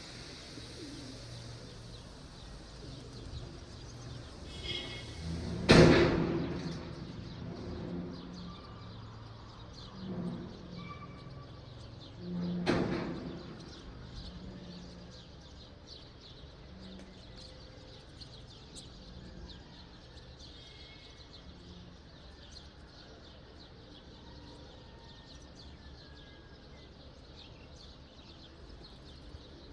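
Outdoor morning ambience with faint birds chirping, broken by two loud thumps about seven seconds apart, the first the louder.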